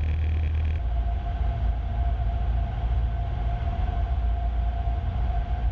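Cessna 150's four-cylinder Continental O-200 engine and cabin noise as a steady drone in flight, picked up through the headset intercom audio. About a second in the sound shifts and a steady whine sets in.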